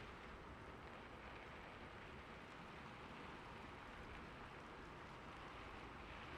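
Faint, steady rain: an even hiss of falling rain that does not change.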